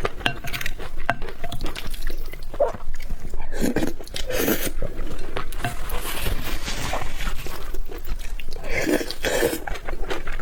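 Close-miked eating sounds: utensils clicking and scraping against a bowl of food, with irregular chewing and mouth noises.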